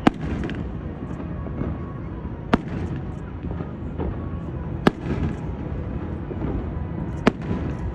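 Aerial fireworks shells bursting: four sharp bangs about two and a half seconds apart, over a steady low rumble.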